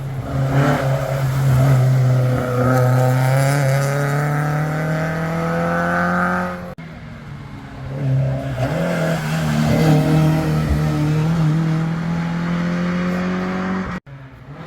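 Historic rally car engines revving hard under acceleration, the pitch climbing. Two separate passes, each cut off abruptly.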